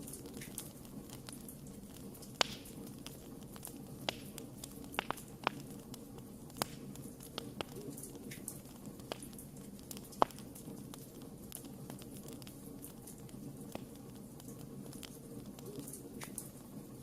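Wood campfire crackling: irregular sharp pops and snaps over a steady low background, with the loudest pops about two and a half and ten seconds in.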